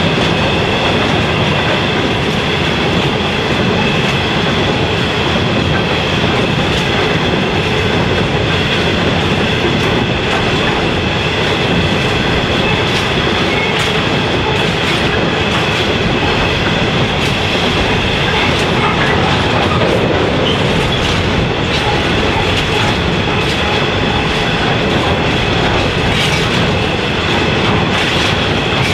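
Freight train wagons rolling past at steady speed, their wheels rumbling with a thin steady squeal and scattered clicks over the rail joints, the clicks coming more often near the end.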